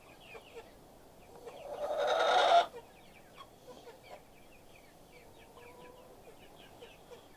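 A flock of chickens clucking, with many short, soft calls, and one louder, rough sound about two seconds in that lasts under a second.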